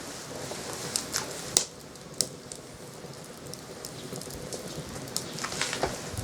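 Wood fire crackling: sharp, irregular pops over a steady hiss.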